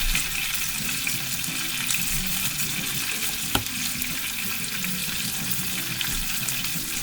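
Panko-breaded chicken breasts sizzling steadily as they pan-fry, finishing on their second side, with a single sharp click about three and a half seconds in.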